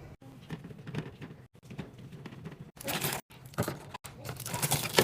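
Plastic snack packets crinkling and knocking together as they are handled and dropped into a fridge drawer, in irregular bursts with several abrupt breaks.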